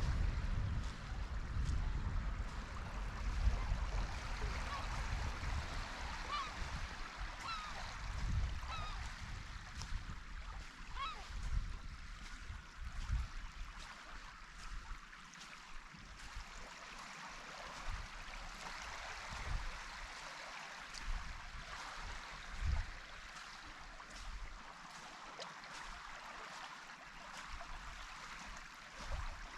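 Wind rumbling on the microphone, heavier in the first half, over a steady wash of calm sea water. A few short herring-gull-type seagull calls come about a third of the way in.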